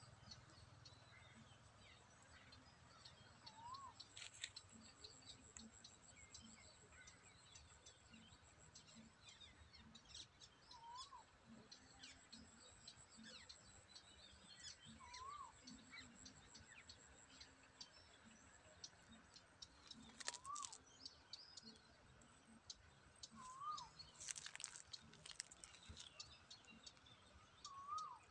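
Faint outdoor birdsong: one bird repeats a short rising-and-falling whistle six times, every few seconds, over scattered high chirps from other birds, with a few brief clicks.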